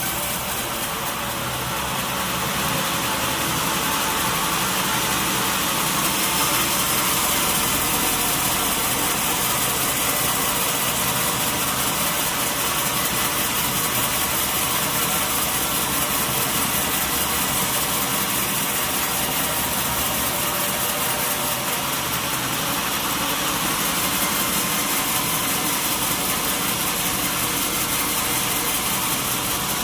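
Sawmill machinery running steadily, a motor's drone under the even noise of a saw, with no breaks or knocks.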